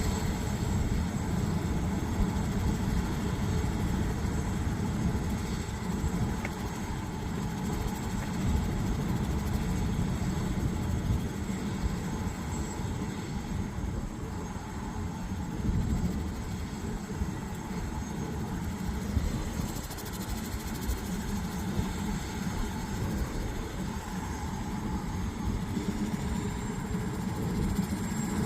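Air Methods medical helicopter running steadily, its rotor making a dense, fluttering low rumble under a steady high whine.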